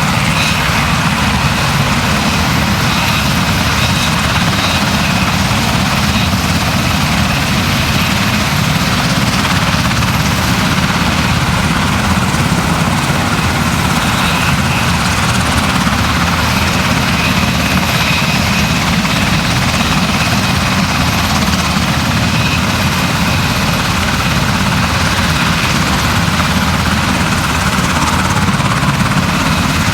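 Helicopter running steadily: a loud, unbroken drone of engine and rotor noise.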